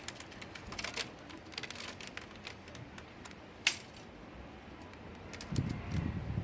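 Budgies moving about their cage: irregular light clicking and tapping, with one sharper click about three and a half seconds in and a few dull thumps near the end.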